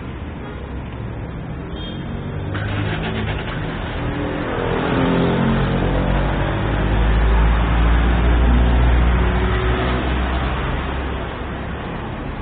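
A motor vehicle's engine passing close by, rising in pitch and loudness, loudest about two-thirds of the way through, then easing off.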